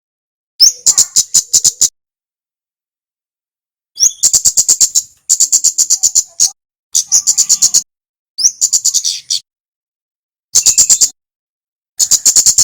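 A kemade songbird singing in repeated phrases, each a short rising whistle followed by a fast, even rattle of sharp high chirps at about eight notes a second, with short pauses between phrases.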